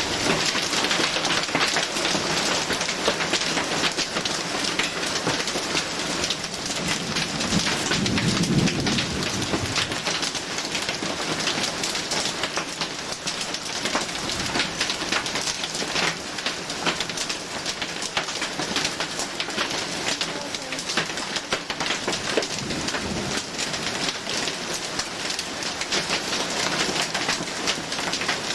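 Heavy downpour of rain: a dense, steady hiss thick with sharp individual drop impacts. A low rumble comes in about eight seconds in.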